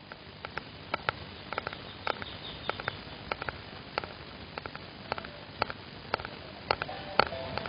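Light, sharp clicks and taps at an uneven pace, about two or three a second, over a faint steady hiss.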